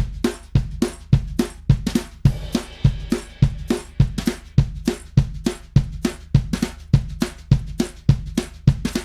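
A drum kit bus playing a steady groove of kick, snare and hi-hat, about three hits a second, with a cymbal crash about two seconds in. It is run through a compressor and EQ plugin in a mix.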